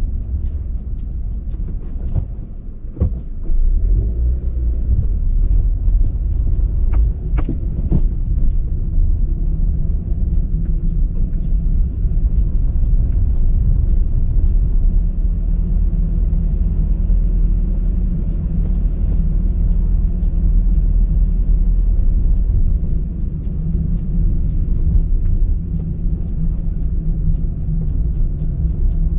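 A car driving, with a steady low rumble of road and engine noise. A few short clicks or knocks come about three seconds in and again around seven to eight seconds in.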